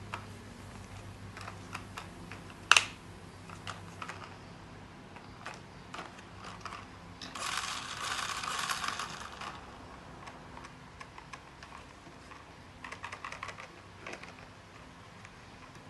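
Irregular light clicks and knocks of small hard objects, with one sharp louder click about three seconds in and a rattling scrape lasting about two seconds near the middle.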